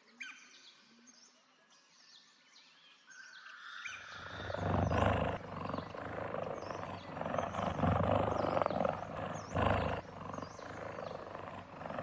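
Cheetah vocalizing with a rough, rumbling sound that builds from about three seconds in and carries on to the end. Faint bird chirps come before it.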